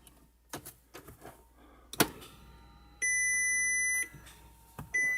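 A few sharp clicks, then two steady high-pitched electronic beeps of about a second each from a car that has just been given power again. The second beep starts near the end.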